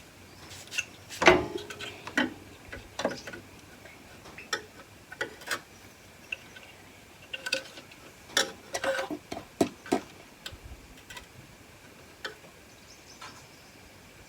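Irregular metallic clicks and clinks, some with a brief ring, as a horn bracket and its nut and bolt are handled and fitted with hand tools.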